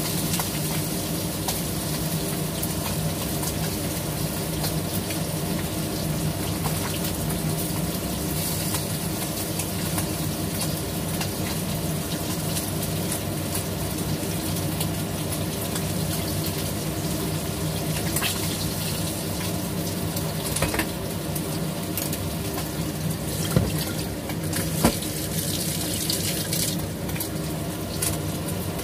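Fish frying in a pan of hot oil, a steady hiss with light crackling over a steady hum. Two sharp clicks of metal tongs a little before the end.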